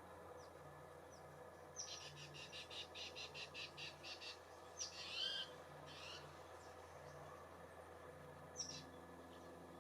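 Wild songbirds calling faintly: a quick run of high chirps, about seven a second, lasting a couple of seconds, then a louder single call and a few scattered single notes.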